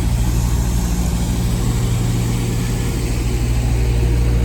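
An engine idling steadily: a low, even hum that holds without change.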